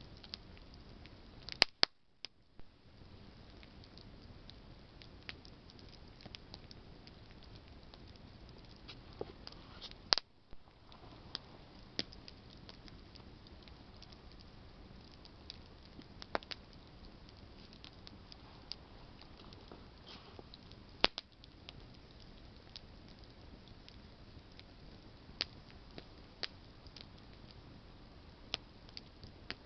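Campfire of burning branches crackling, with scattered sharp pops over a soft steady hiss; the loudest pops come about two seconds in, about ten seconds in and about twenty-one seconds in.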